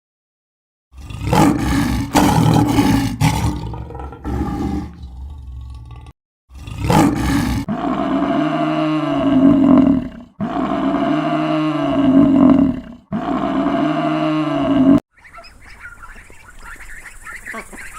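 Deep calls of a large animal: a few rough, noisy calls, then the same drawn-out call, rising and falling in pitch, three times in a row, each about two and a half seconds long.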